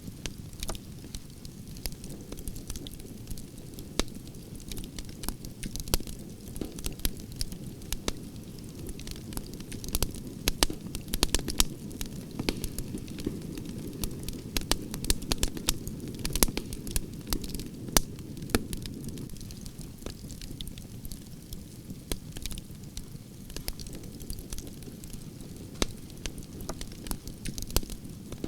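Campfire of burning branches crackling: a steady low flutter of flames with many sharp, irregular pops and snaps, busiest in the middle.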